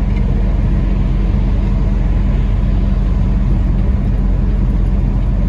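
Peterbilt 579 semi truck's diesel engine heard inside the cab, running with the engine brake on its first stage to slow a heavy load: a steady, low, rapidly pulsing drone.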